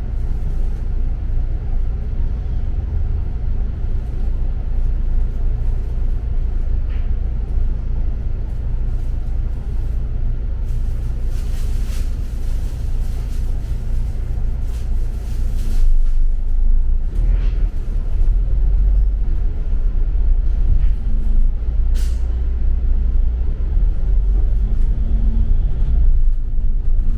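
Double-decker city bus heard from inside the cabin: the engine's steady low rumble, with a hiss of compressed air from the bus's pneumatics lasting several seconds around the middle. After that the rumble grows louder, and a sharp click comes a little later.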